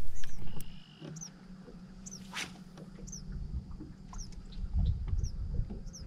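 Birds chirping in short, high, repeated calls about once a second, with a quick run of chirps near the end. A low steady hum and some low bumps run underneath, after a loud rumble of handling noise in the first second.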